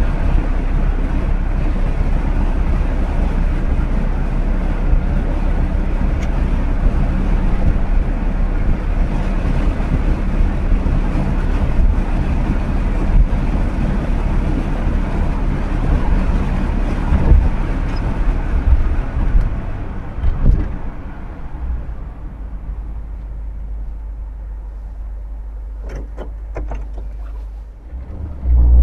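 1959 Chevrolet Bel Air's 348 V8 driving along with steady engine and road noise. About two-thirds of the way in it falls to a quieter, steady low rumble, with a few light clicks near the end.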